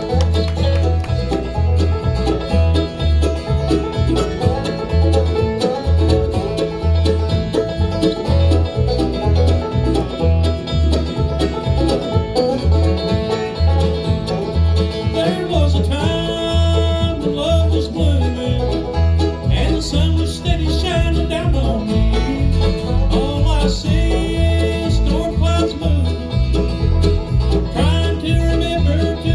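Live bluegrass band playing an instrumental passage with banjo, guitar and a bowed fiddle over a steady walking bass.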